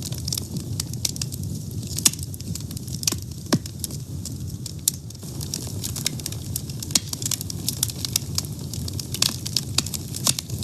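A fire burning, with irregular sharp crackles and pops, several a second, over a steady low rumble; one louder pop about two seconds in.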